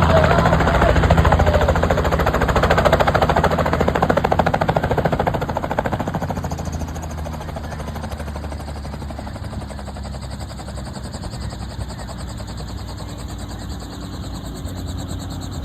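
Helicopter running, its rotor beating in a fast, even chop over a steady engine hum. It grows quieter about six seconds in and stays lower.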